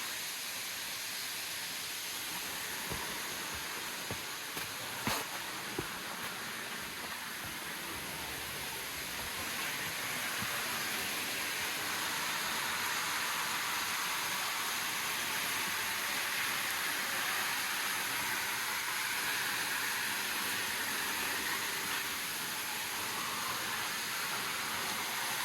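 Rushing water from a waterfall or river cascade, a steady hiss that grows louder about ten seconds in, with a few sharp clicks early on.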